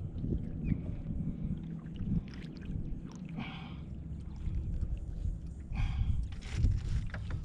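Wind buffeting the microphone and water lapping against the hull of a small Gheenoe skiff, with two brief louder washes of noise about three and a half and six seconds in.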